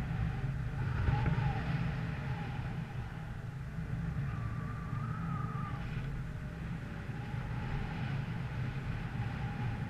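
Steady low rumble of a running vehicle, with wind on the microphone; a faint tone rises briefly in the middle.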